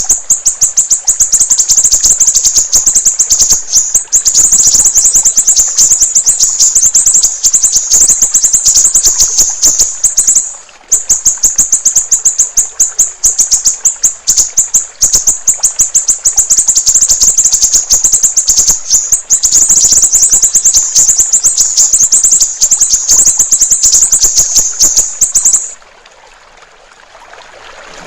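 Siri-siri songbird singing a loud, high-pitched, very rapid string of repeated notes like a chattering trill, with a short break about ten seconds in. The song stops shortly before the end, leaving a faint trickle of running water.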